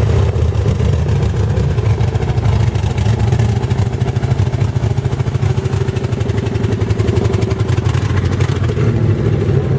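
Loud, steady engine of a mud-racing truck running hard, with a fast, even flutter.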